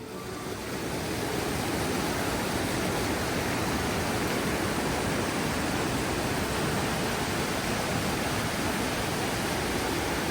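Waterfall: a steady rush of falling water that swells up over the first second or so, then holds even.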